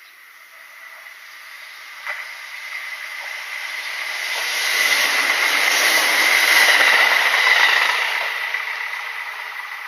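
Kintetsu electric train passing by on the track: its running noise swells over several seconds, is loudest in the middle, and fades again toward the end, with a single sharp click about two seconds in.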